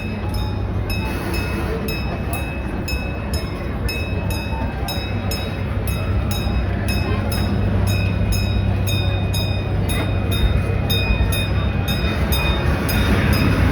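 Passenger train coach running along the track, heard from aboard: a steady low rumble with a faint high whine and a quick, regular clicking of the wheels over the rails.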